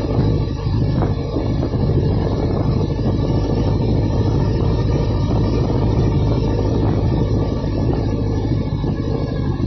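1979 Yamaha XS1100's air-cooled inline-four running steadily under way, a loud, even low drone with no change in speed or revs.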